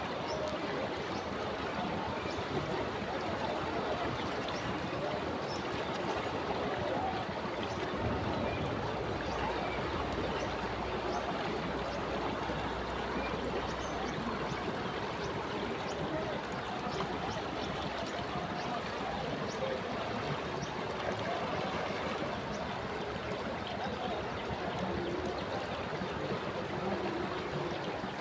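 The Ganga river flowing: a steady rushing and gurgling of moving water, with no pauses.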